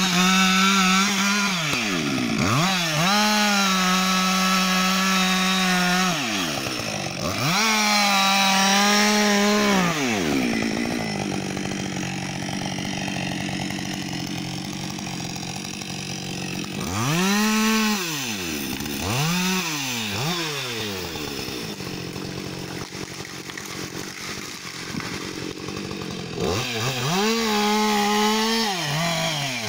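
Husqvarna 560 XP two-stroke chainsaw revved repeatedly. It climbs to a high, steady full-throttle pitch for a few seconds at a time, then drops back to a lower idle, with two longer idle stretches mid-way.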